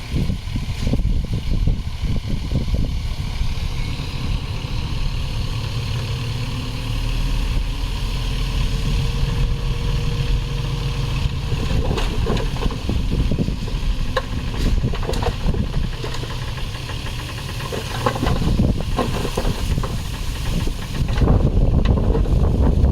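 Diesel engine of heavy earthmoving machinery running steadily, with scattered clanks and knocks in the second half.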